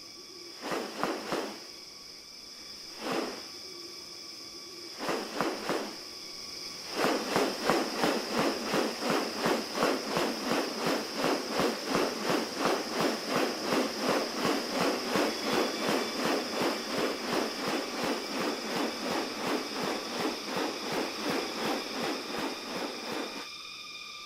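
Rainforest ambience: a steady high insect drone. A few separate pulses sound in the first seconds, then from about seven seconds in comes an even run of repeated pulses, about three a second, which stops shortly before the end.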